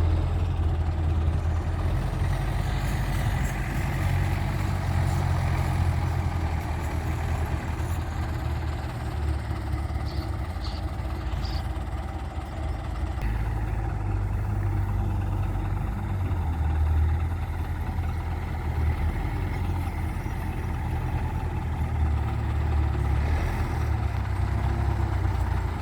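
Tractor engine running steadily, a deep low rumble that swells and eases a little.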